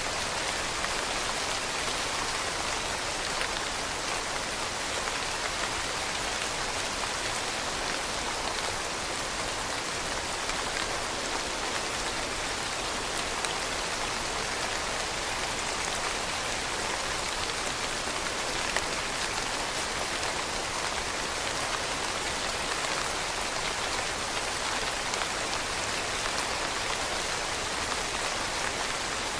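Steady rain falling on leaves, a dense even patter of many drops with small ticks scattered through it.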